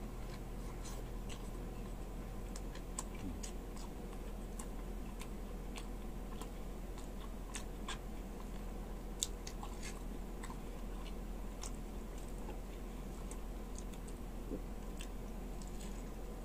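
A person chewing fried beef meat, with scattered faint wet mouth clicks and smacks over a steady low hum.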